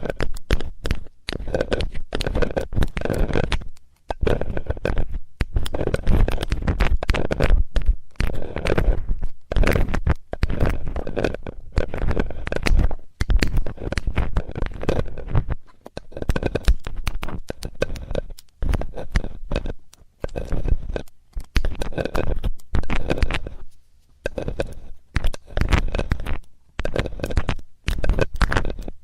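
ASMR ear cleaning on a binaural microphone's ear: a metal ear-cleaning tool scraping and rubbing in irregular strokes with short pauses between them.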